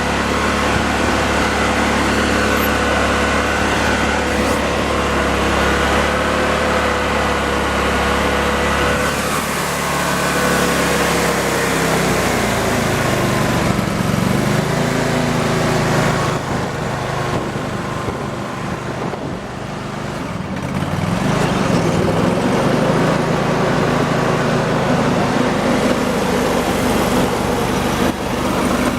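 Rayco 1625 Super Jr stump grinder's rebuilt twin-cylinder engine running. Its speed drops about ten seconds in, sags briefly around twenty seconds, then picks back up and holds steady.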